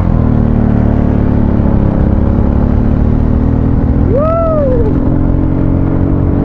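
Motorcycle engine running under way with steady wind and road noise, its pitch creeping up slightly as it gathers speed. About four seconds in, a short tone rises and falls once above the engine.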